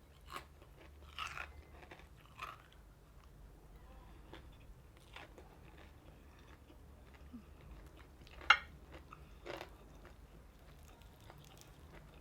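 Person chewing crispy fried chicken close to the microphone: irregular crunches between quieter chewing, with the loudest crunch about eight seconds in and another a second later.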